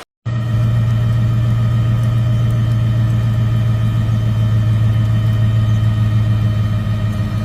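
Motor vehicle engine running steadily with a loud, even low hum, starting suddenly about a quarter second in.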